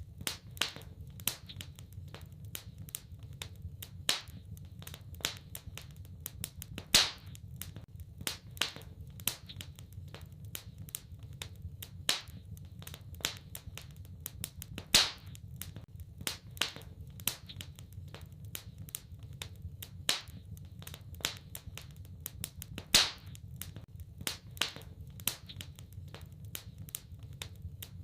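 Wood fire crackling in a fireplace: frequent irregular snaps and pops over a steady low rumble, with a louder pop about every eight seconds.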